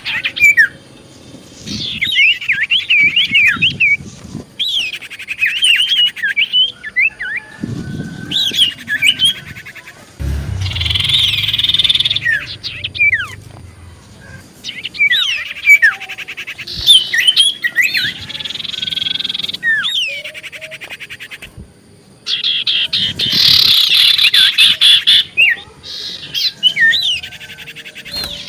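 Common iora (cipoh) singing and chattering: quick up-and-down chirps and whistles mixed with fast buzzy rattles, in bouts broken by short pauses. A low bump and rumble sounds about ten seconds in.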